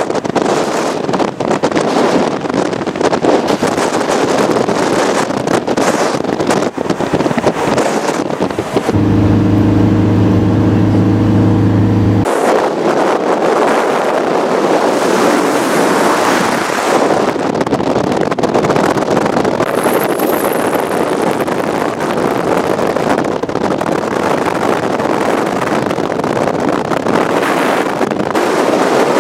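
Strong wind buffeting the microphone over the noise of a moving vehicle. About nine seconds in, a loud, steady low hum takes over for about three seconds and then cuts off abruptly.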